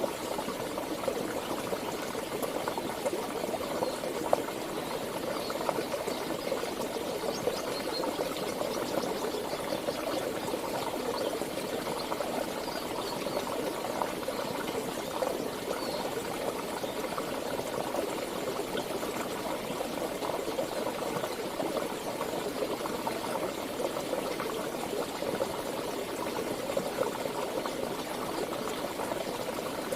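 Flowing stream water babbling steadily.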